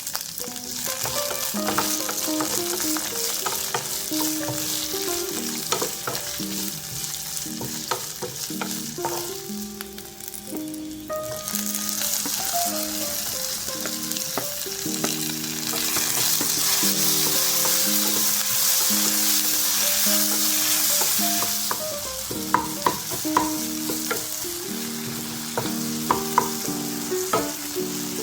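Food sizzling in hot oil in a pan as it is stirred, with sharp clicks of a utensil against the pan toward the end. The sizzle grows louder in the middle. Soft background music plays under it.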